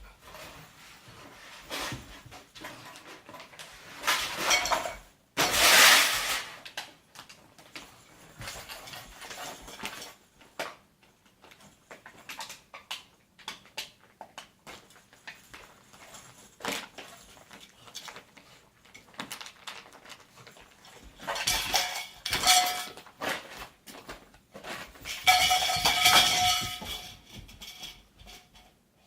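Irregular clattering and banging of hard household objects, like pots and utensils being knocked together, with louder bursts of clatter about four seconds in and again in the last third. A high held tone sounds through the final burst.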